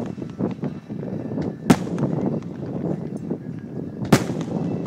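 Aerial firework shells bursting: two big booms about two and a half seconds apart, with smaller pops and crackle between them.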